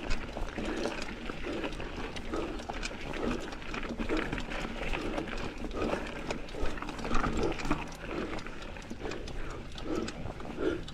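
Mountain bike ridden over a rough trail: rattling and knocking from the bike and tyres, with the rider's heavy breathing repeating about once or twice a second, and wind rumble on the microphone.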